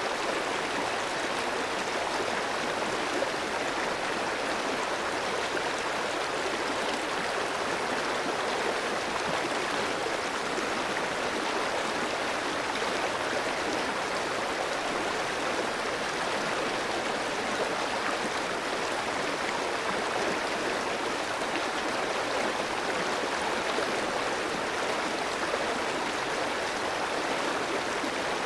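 Clear shallow stream flowing steadily over rocks, a constant rushing and gurgling of running water.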